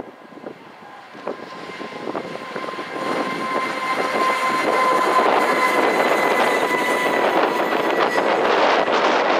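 A JR Freight EF510 electric locomotive and its container freight train passing close at speed. The rumble of the train builds over the first few seconds, then holds steady as the container wagons roll by, with a faint steady whine through the middle.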